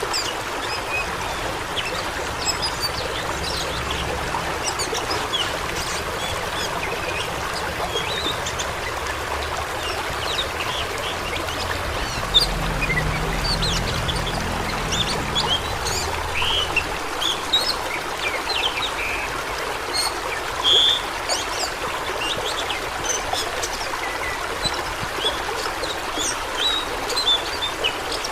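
Steady rush of flowing water, with many short high-pitched chirps scattered over it.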